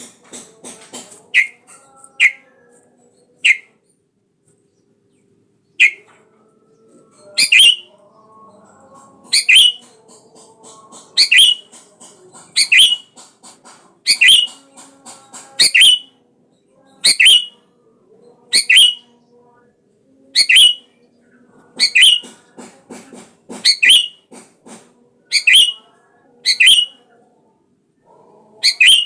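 Sooty-headed bulbul calling: short, loud, bright notes repeated about every one and a half seconds, after a brief pause a few seconds in.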